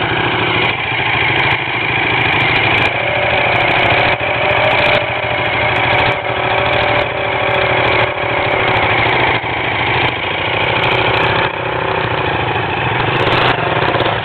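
Dirt bike engine running continuously at fairly high revs, loud throughout, with brief dips in loudness about once a second.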